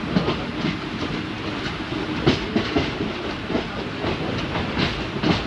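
Passenger train running along the track, heard from an open coach doorway: a steady rumble and rattle with the wheels clicking and knocking over the rails at uneven intervals.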